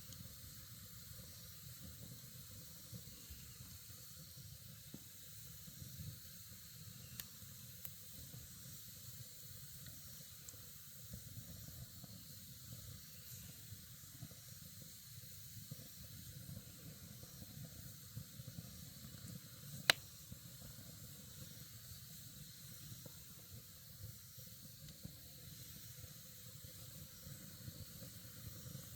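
Wood campfire burning with a soft, steady hiss and sparse faint crackles, and one sharp pop about two-thirds of the way through.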